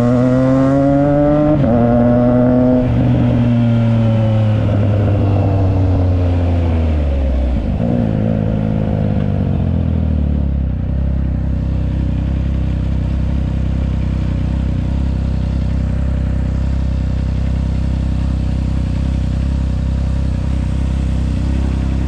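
Triumph Trident 660 inline-three engine through a Yoshimura exhaust, pulling through a gear change in the first few seconds. The revs then fall away as the bike slows, and about ten seconds in it settles into a steady idle.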